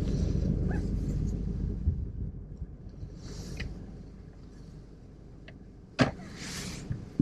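Low car engine and road rumble heard from inside the cabin, fading gradually, with a few brief swishing sounds and a sharp click about six seconds in.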